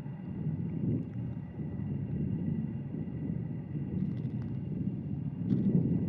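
Low, steady rumbling wind noise buffeting the microphone outdoors, with a few faint small ticks.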